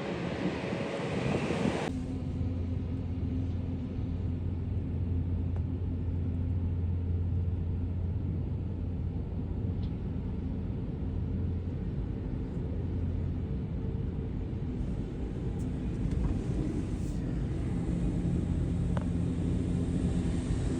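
Aircraft jet engines heard at a distance: a steady low rumble with a few faint steady tones. A louder hiss stops abruptly about two seconds in, leaving only the rumble.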